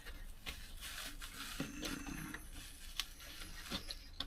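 Rustling and scraping of a truck cab's headliner being pried and pulled loose, with scattered sharp clicks, the sharpest about three seconds in. A short low grunt of effort comes about a second and a half in.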